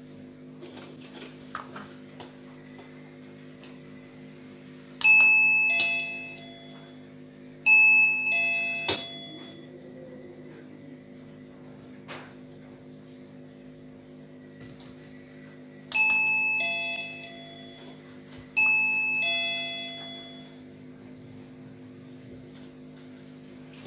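OnePlus wireless calling bell playing its electronic chime tune twice, a few bright ringing notes each time, about five seconds in and again about sixteen seconds in, while it is tested with a swapped capacitor to raise its volume. A steady low hum runs underneath, with a click between the two notes of the first tune.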